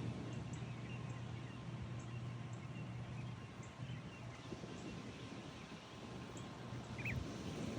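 Daybreak outdoor ambience: a steady low rush with scattered faint bird chirps, and a brief, slightly louder double chirp near the end.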